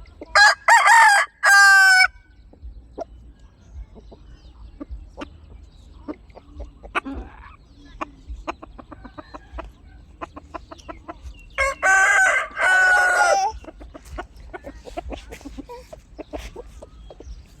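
A rooster crows twice, once at the start and again about eleven seconds later. Between the crows come scattered soft clucks and short clicks from the chickens.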